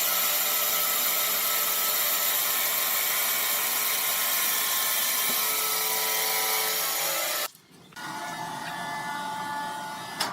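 Power saw cutting through wood: a loud, steady hissing whine with several fixed tones. About seven and a half seconds in it cuts off abruptly and is replaced by a quieter steady machine hum.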